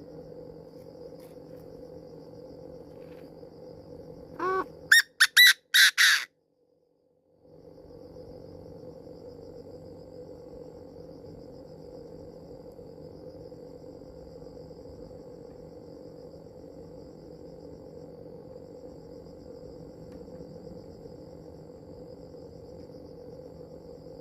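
Chinese francolin calling: a loud burst of about five harsh, rising notes around five seconds in. The call sits over a steady low drone and a faint high insect-like hiss, and the sound drops out for about a second right after it.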